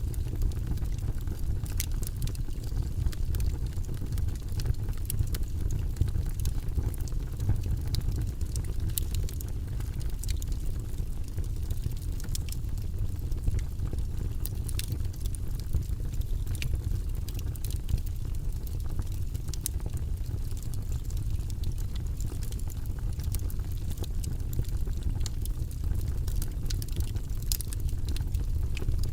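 Logs burning in a fireplace: a steady low rumble from the fire with frequent small, irregular crackles and pops from the burning wood.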